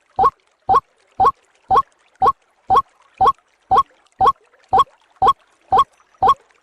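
White-breasted waterhen (ruak-ruak) lure call: a short note repeated at an even pace, about two a second, without a break.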